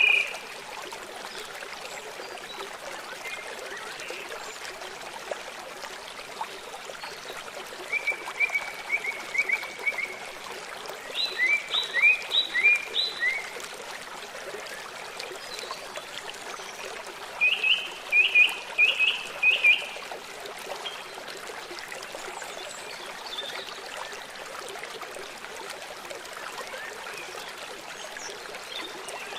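Steady rushing of a river, with birds singing in short runs of quick, high, repeated chirps, three louder runs through the middle.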